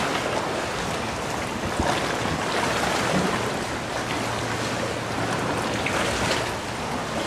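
Sea water sloshing and lapping around a sea kayak, a steady wash of water noise with a few faint knocks.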